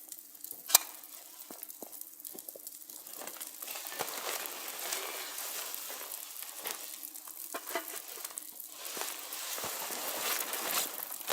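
Food sizzling in a pan over a campfire, a steady hiss with scattered sharp pops and one louder click just under a second in. The sizzle grows stronger after about three and a half seconds.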